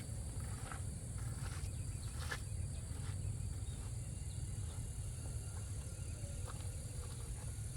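Insects drone steadily in a high, even band over a low background rumble, with a few faint clicks in the first couple of seconds.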